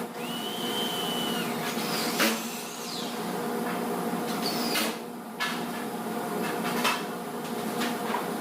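A steady machine-like drone, with a held high tone early on and a few sharp knocks and clicks.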